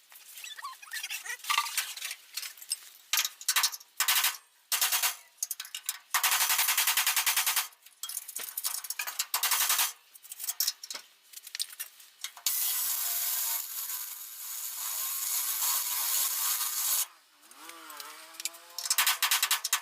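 Angle grinder working rust off steel car bodywork in on-off bursts: a string of short grinds, then one long steady grind of about five seconds. Near the end the motor's pitch dips and rises, followed by a rapid stuttering chatter.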